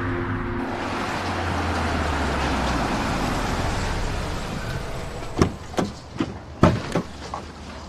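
Car cabin noise with a low hum, fading as the car slows. From about five seconds in, a run of sharp clicks and knocks, about six spaced half a second apart.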